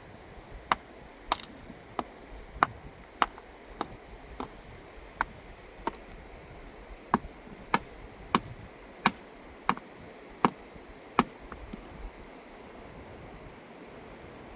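A series of sharp, hard clinking strikes, roughly one every half second to second, stopping about twelve seconds in, like a hard tool or stone striking stone.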